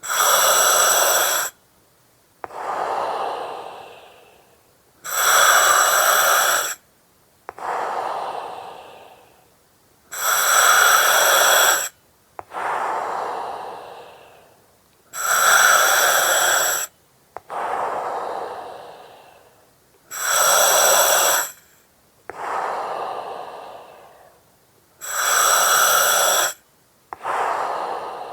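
A person breathing slowly and regularly through an oxygen mask, about one breath every five seconds. Each breath has a loud hissing phase of about a second and a half with whistle-like tones from the mask's regulator, followed by a softer, longer breath that fades out.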